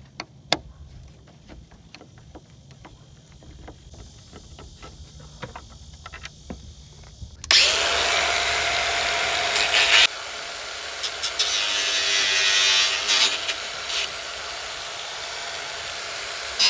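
Scattered clicks and knocks of hand work, then a power tool running about halfway through, loud for a couple of seconds, briefly stopping, then running on somewhat quieter to the end.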